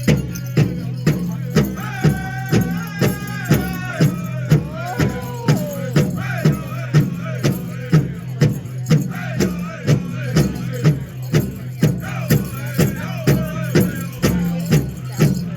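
Powwow drum group singing over a steady, even beat on a big drum, about two strokes a second.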